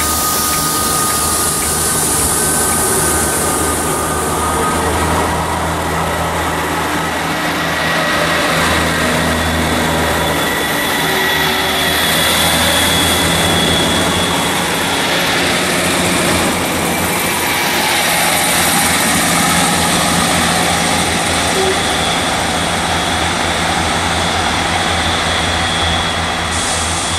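GWR diesel multiple-unit train passing close by: a steady underfloor diesel engine drone with whining tones over it and the wheels running on the rails, fading near the end as the train draws away down the line.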